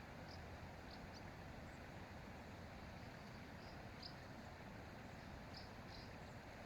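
Faint short high chirps of small birds, about eight scattered irregularly, over a steady low background hiss of open-air ambience.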